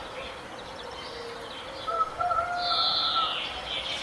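Several birds chirping and calling, louder from about two seconds in, with one high call that falls slightly in pitch.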